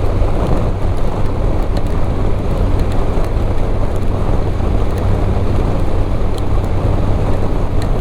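Motorcycle running at road speed: a steady low engine drone under wind rushing over the microphone.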